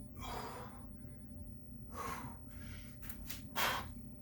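Hard breathing of a person working through six-count reps: three sharp, gasping breaths, the last and loudest near the end, from exertion.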